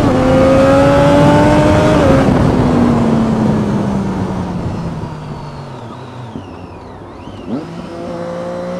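Motorcycle engine at high revs pulling hard, its pitch climbing slightly for about two seconds, then falling away as the throttle is eased, with wind rushing past. The revs rise again near the end.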